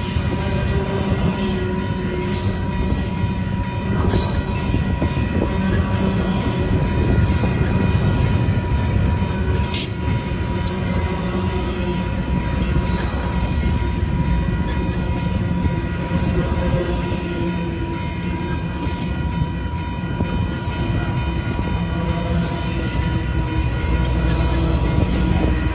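Intermodal freight train's double-stack container well cars and trailer flatcars rolling past: a steady low rumble of steel wheels on rail, with occasional sharp clanks, one clearest about ten seconds in, and a thin steady whine.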